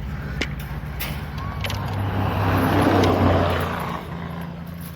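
A road vehicle passing close by, swelling to a peak about three seconds in and fading, over a steady low engine hum.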